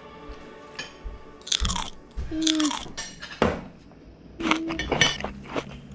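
A child chewing and crunching a mouthful of fried galunggong (round scad) and rice, in about four loud crunchy bursts spread through the middle of the few seconds.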